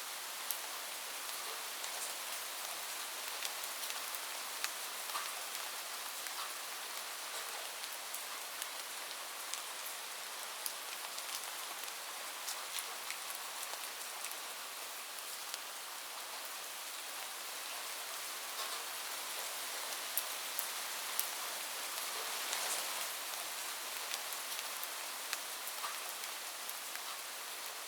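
Heavy rain falling steadily on a roof, with frequent sharp ticks of single drops over the even hiss of the downpour.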